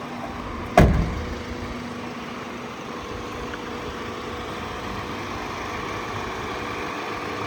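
Mercedes-Benz Sprinter van's engine idling steadily, with one loud thump just under a second in.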